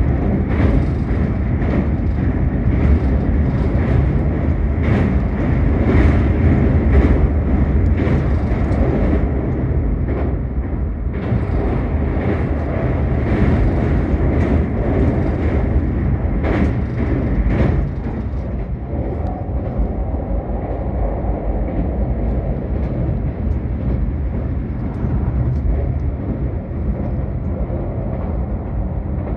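Keisei Morning Liner limited express heard from inside the passenger car: a loud, steady running rumble with many sharp clacks while it crosses a steel truss bridge. Past the middle it runs smoother and a little quieter.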